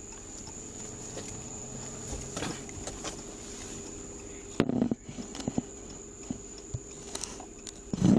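Small clicks, scratches and knocks of items being handled and searched through in a container. There is a louder cluster of knocks about four and a half seconds in and another loud knock at the very end.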